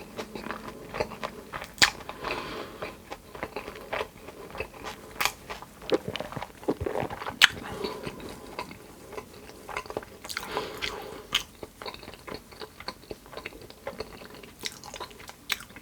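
A person chewing and biting food close to the microphone, with irregular sharp crunches and wet mouth sounds.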